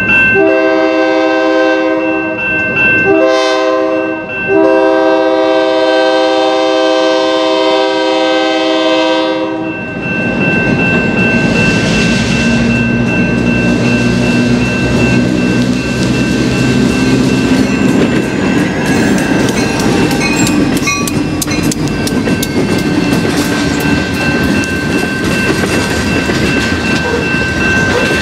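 Diesel locomotive horn sounding the end of the grade-crossing signal (long, short, long) over a steadily ringing crossing bell. The horn stops about ten seconds in, and the locomotive's diesel engine passes close by. Freight cars follow, their wheels clicking over the rail joints.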